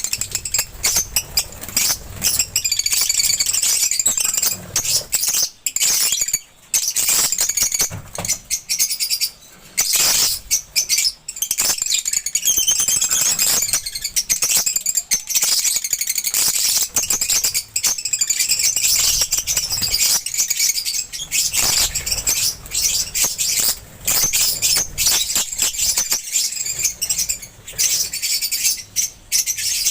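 Lovebirds chattering: a continuous stream of rapid, high-pitched chirps and calls.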